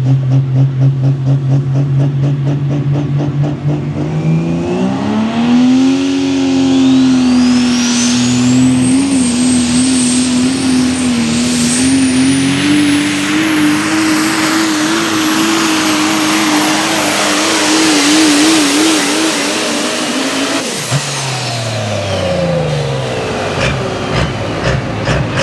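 Super stock diesel 4x4 pulling truck making a pull. Its engine runs at a pulsing high idle, revs up about four seconds in, and then runs hard under load for some fifteen seconds, its pitch wavering, with a high turbo whistle climbing and holding above it. Near twenty seconds the throttle comes off, and the engine and turbo wind down.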